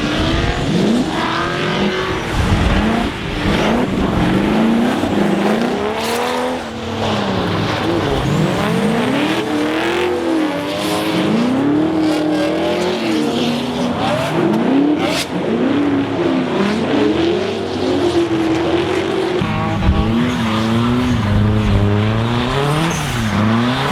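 Drift car engines revving hard and dropping off again and again, their pitch swinging up and down every second or two as the cars slide through the corners on a wet track.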